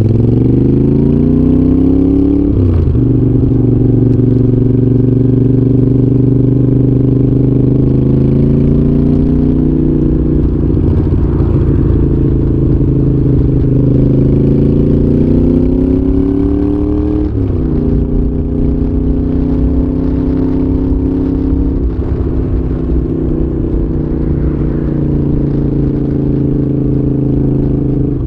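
Moto Guzzi V7's air-cooled transverse V-twin through a Mistral exhaust, pulling through the gears under way. The revs climb and drop sharply with an upshift about two and a half seconds in, climb again to another upshift about seventeen seconds in, then hold fairly steady while cruising, over low wind rush.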